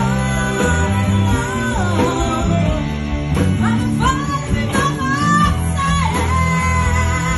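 Rock band playing, with a lead electric guitar line that bends and slides up in pitch over bass and drums.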